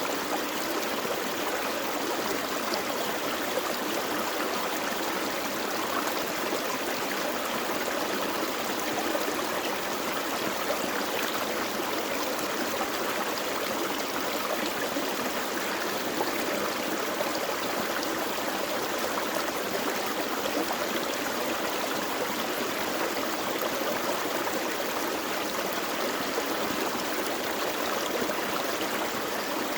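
A gentle forest stream flowing and babbling over rocks, steady throughout.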